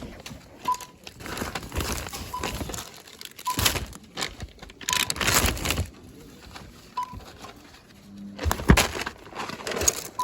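Checkout barcode scanner giving short beeps every second or two, mixed with the rustle and crinkle of plastic-wrapped items being handled.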